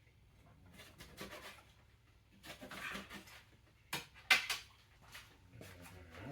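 Kitchen handling sounds: a few scraping strokes and, loudest, a cluster of sharp knocks or clicks about four seconds in.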